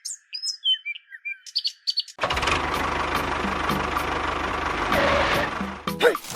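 Small birds chirping for about two seconds. Then a motor starts abruptly and runs steadily with a low hum and a dense whirring noise for about three and a half seconds before dropping away near the end.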